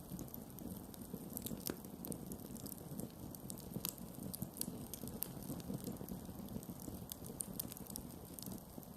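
Campfire burning: wood crackling with frequent, irregular sharp pops over a steady low rumble of the flames.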